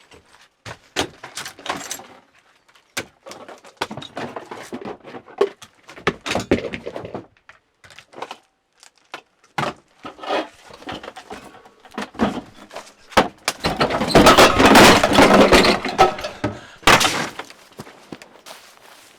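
Irregular knocks, clicks and clattering, with a louder, denser stretch of noise lasting a few seconds about two-thirds of the way through.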